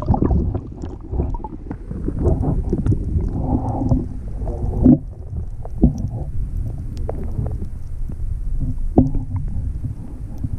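Sit-on kayak being paddled: a steady low rumble of water and wind on the microphone, with a few sharp knocks of the paddle against the hull.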